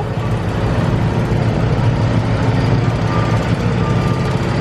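Steady, loud, low engine-like drone of work machinery running, from crews cleaning out a geyser that is not working to get it going again.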